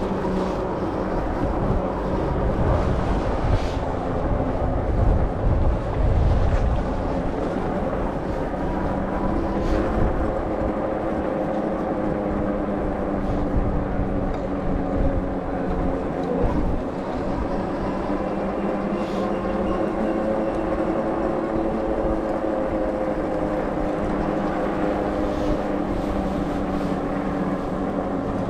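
Super73 electric bike riding along: a steady motor whine whose pitch drifts slowly up and down with speed, over wind and tyre rumble that is heavier in the first several seconds.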